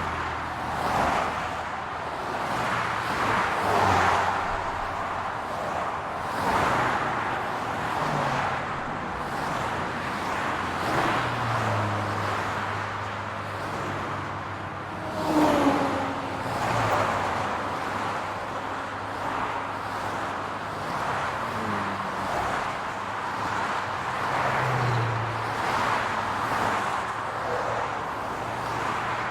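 Road traffic: cars passing one after another, the engine hum and tyre noise swelling and fading every few seconds. About halfway through, one louder vehicle passes with its engine pitch sliding.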